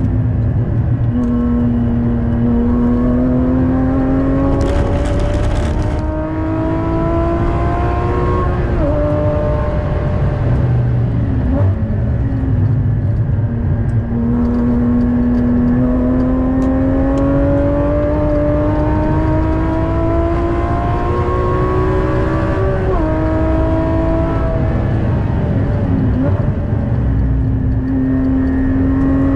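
Porsche Cayman GT4's naturally aspirated flat-six, heard from inside the cabin under hard track driving. It rises in pitch through two long pulls, each cut by a quick upshift drop about 9 and 23 seconds in, with an uneven off-throttle stretch between them. Tyre and road rumble runs underneath.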